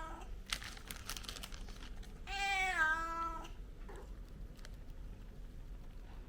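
A house cat meowing once, a drawn-out meow of about a second whose pitch dips and settles, with a few light clicks before it.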